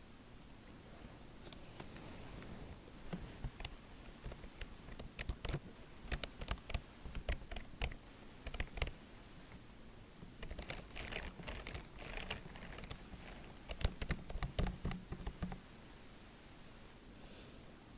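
Typing on a computer keyboard close to the microphone: quick, irregular runs of keystrokes clicking and tapping, thinning out near the end.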